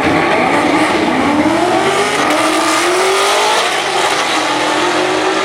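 Drag-racing car accelerating hard down the strip. The engine note rises steadily for a couple of seconds, then drops a little and holds steady.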